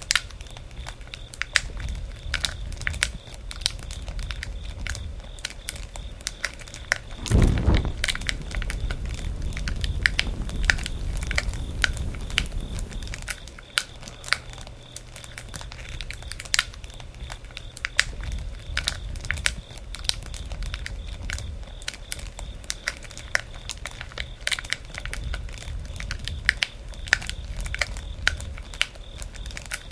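Wood campfire burning, with constant irregular crackling and popping over the low rumble of the flames. About seven seconds in, a louder rushing swell comes up and lasts about five seconds before settling back.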